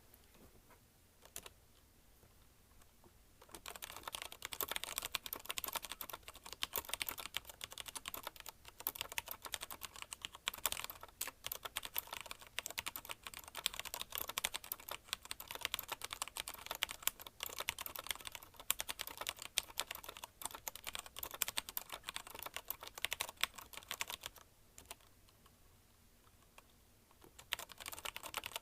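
CM Storm QuickFire TK mechanical keyboard with linear Cherry MX Red switches being typed on fast and continuously, a dense stream of key clacks. The typing starts a few seconds in after a pause, stops for about three seconds near the end, then picks up again.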